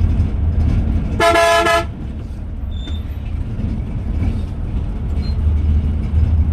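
A vehicle horn blares once, about a second in, for about half a second, over the steady low drone of a moving bus.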